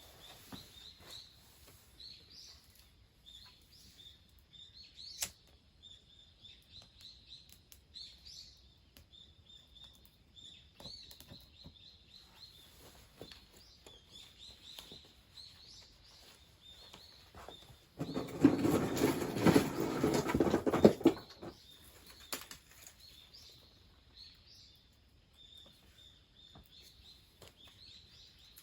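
Small birds chirping faintly and repeatedly, with a few light clicks of handling. About two-thirds of the way in comes a loud crackling, crinkling rustle lasting about three seconds.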